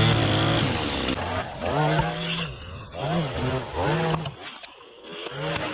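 Gas chainsaw revving up and falling back in repeated surges, about once a second, with a brief lull near the end.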